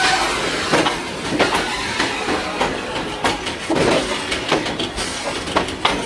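Freight train of bogie covered wagons rolling past, its wheels clacking over the rail joints in a steady run of clicks.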